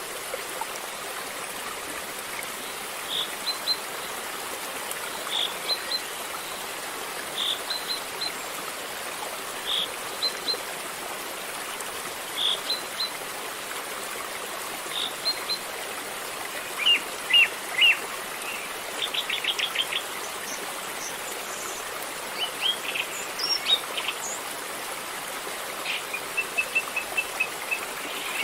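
River water flowing steadily, with birds chirping over it. A short high call repeats about every two seconds, then more varied calls follow, including a quick trill about two-thirds of the way through.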